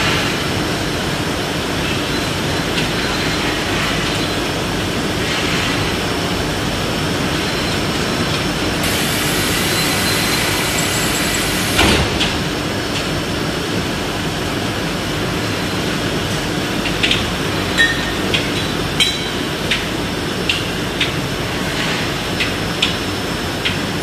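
Steady industrial machinery noise, with a sharp knock about twelve seconds in and scattered light metallic clinks through the last third.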